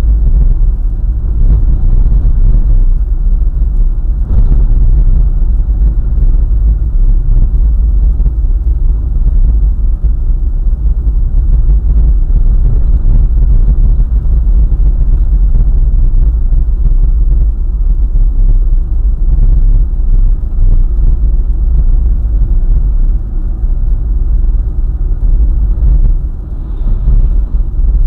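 Vehicle driving along a highway: a steady, loud low rumble of road and wind noise, with a few faint knocks over bumps.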